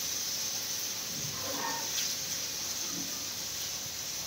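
Steady high hiss of homemade paneer cubes frying in a pan on a gas stove.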